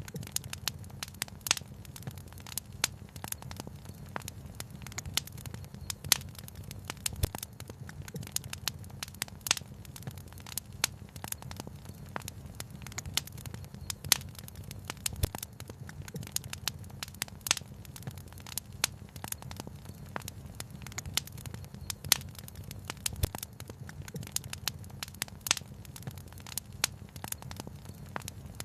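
Wood fire crackling, with frequent sharp pops and snaps throughout over a steady low rush.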